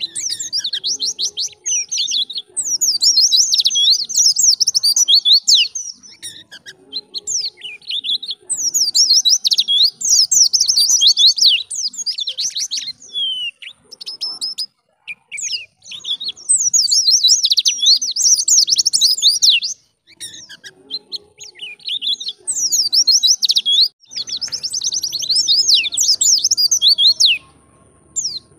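White-eye (pleci) singing its wild-type 'ngalas' song: bouts of rapid, high chattering chirps a few seconds long, broken by short pauses.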